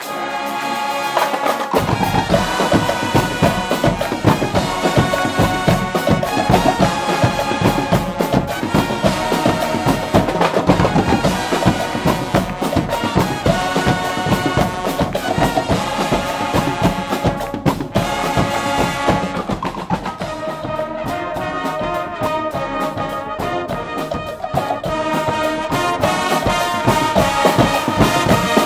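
Guggenmusik band playing loud brass-and-drum carnival music: trumpets and trombones over a driving percussion beat. A held brass chord opens, the drums come in about two seconds in, and the beat thins out about two-thirds of the way through while the brass plays on.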